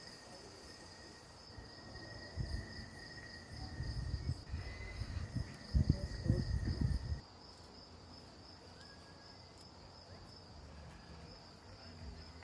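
Crickets chirping steadily in a fast, even pulse. Low rustling and knocks near the microphone, loudest just before the middle, then stopping.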